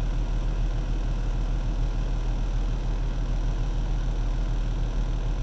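Semi truck's diesel engine idling: a steady low drone.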